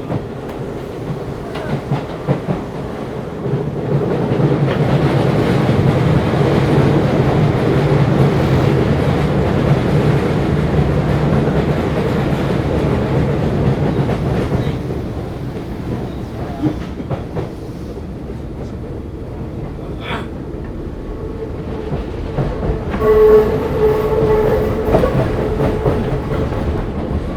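Keisei 3500-series commuter train heard from inside a motor car while running, with wheels clicking over rail joints. The running noise swells a few seconds in, eases off in the second half, and a whining tone with overtones rises near the end.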